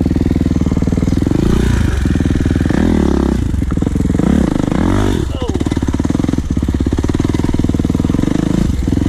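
Kawasaki KX450 dirt bike's single-cylinder four-stroke engine running hard while ridden, revved up and down several times around the middle, then holding a steady pitch.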